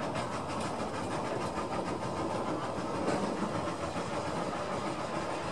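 Narrow-gauge passenger coaches rolling along the track, a steady running rumble with faint clicks of wheels over rail joints that fade after the first second or two.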